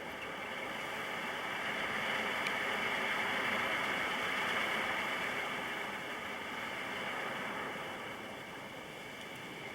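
Gusty wind around a homemade horizontal-axis wind turbine: a steady rushing hiss that swells about two seconds in and eases after about six seconds. There is no hum from the spinning blades.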